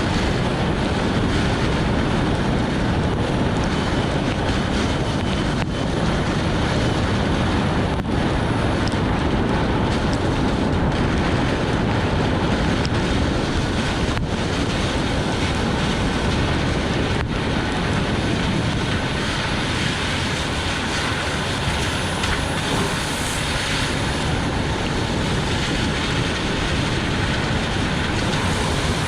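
Steady rushing road noise of a car driving in heavy rain: tyres hissing on the wet road surface, mixed with rain and wind noise.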